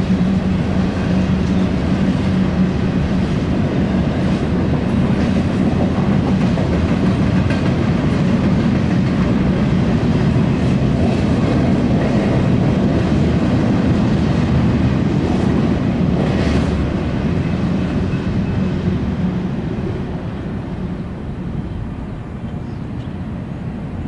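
Double-stack intermodal freight cars rolling past, steel wheels rumbling on the rails. The sound eases off over the last several seconds as the end of the train goes by.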